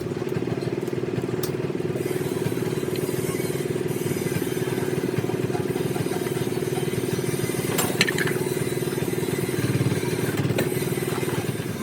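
A motor running steadily with a fast, even pulse, with a few sharp metallic clicks over it.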